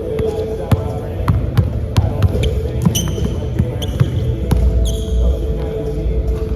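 Basketballs bouncing on a hardwood gym floor, with repeated sharp thuds and short sneaker squeaks, over a steady hall hum.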